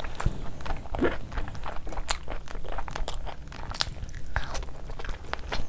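Close-miked chewing and biting as a mouthful of chicken curry is eaten by hand: an irregular run of many short mouth clicks and smacks.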